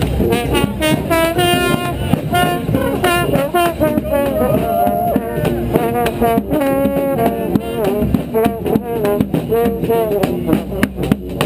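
Brass street band playing a tune, horns such as trombones and trumpets carrying the melody in held and moving notes.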